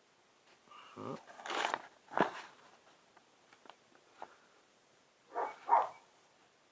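A dog barks twice in quick succession near the end, after a few rustling and handling noises and a sharp knock in the first half.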